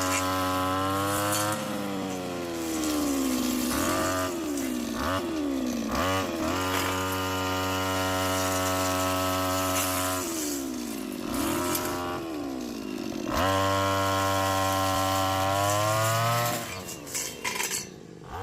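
Chainsaw engine revved up and held at high speed for a few seconds at a time, dropping back to a lower speed between runs, about five times. It cuts off near the end, leaving a few light knocks.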